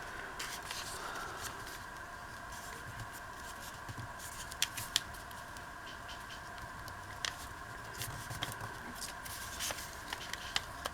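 Paper pieces being handled and shuffled: scattered soft taps and rustles, a few sharper clicks, over a steady faint hum.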